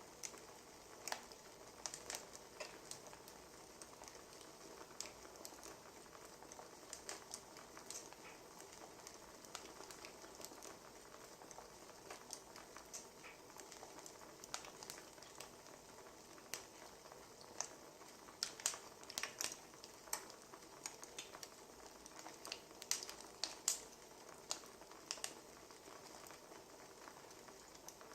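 Wood fire crackling: a faint steady hiss broken by irregular sharp pops and snaps, busiest in the latter half.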